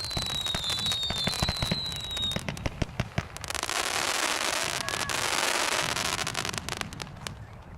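Consumer fireworks going off: several whistles falling in pitch among rapid sharp pops, then a dense crackling lasting a few seconds that fades near the end.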